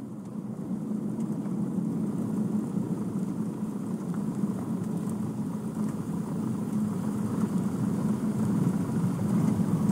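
Steady drone of a light aircraft's piston engine at low power, heard from inside the cockpit, growing slightly louder toward the end.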